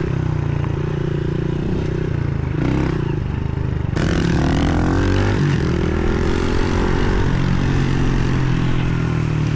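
Pit bike engine running while being ridden, its pitch falling and rising as the throttle is eased and opened again about four seconds in.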